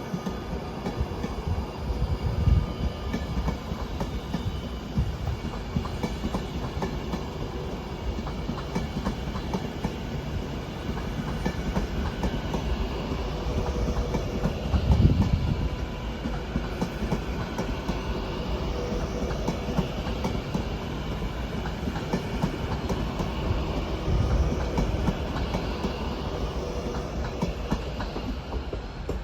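A train running past on the main line: a steady rumble with wheel clatter over rail joints, briefly loudest about halfway through.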